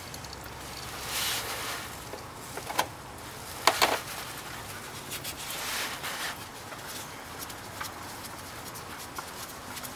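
Engine oil dripping and pattering into a drain pan from the loosened oil filter, with a few sharp knocks about three and four seconds in.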